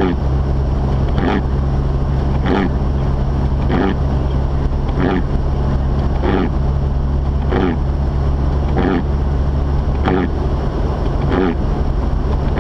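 Windshield wipers swishing across the glass about every 1.3 seconds, ten strokes in all. Under them runs the steady low drone of a Mazda RX-8 being driven.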